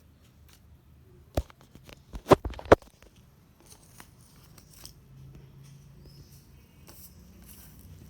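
Scissors snipping paper: a few sharp snips about one and a half to three seconds in, the loudest, then fainter clicks and paper rustling.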